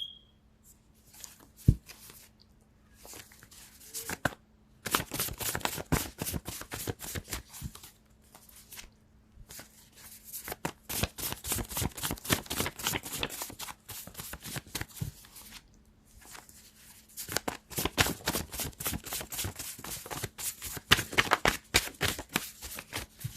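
A deck of tarot cards being shuffled by hand, in several long bouts of rapid papery flicking with short pauses between.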